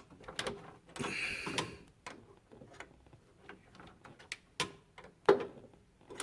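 A 1/2 inch wrench tightening a water supply line fitting onto a refrigerator water inlet valve: irregular small metallic clicks and taps, with a louder knock about five seconds in.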